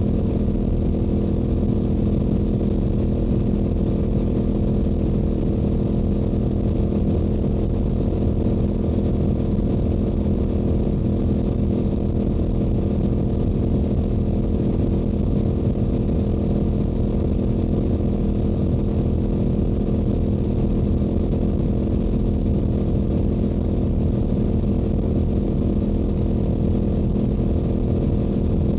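Stock Yamaha YZF-R7's 689 cc crossplane parallel-twin engine and exhaust running at a steady highway cruise, holding an even pitch with no revving or gear changes.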